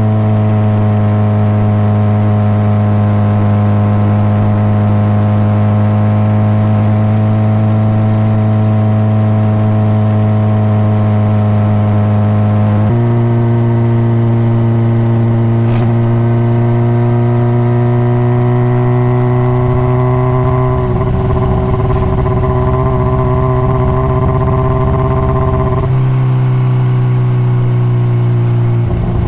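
Honda CBR600RR inline-four engine with stock exhaust running at steady cruising revs, its pitch sagging slowly, then stepping up sharply about halfway through. A low rumbling noise joins in for several seconds past the middle.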